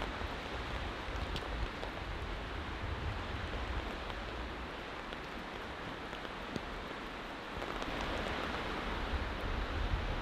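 Steady rain and wind noise under a tarp shelter, with a few scattered drops ticking on the tarp; it swells slightly in the last few seconds.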